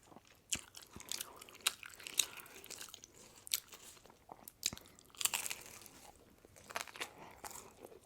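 Close-up eating sounds: irregular wet chewing with crisp crunches and mouth smacks, about a dozen sharp clicks spread through.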